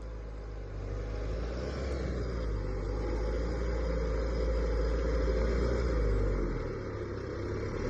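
Isuzu D-Max V-Cross pickup's diesel engine pulling steadily under load on a climb. It grows louder about a second in and eases off near the end.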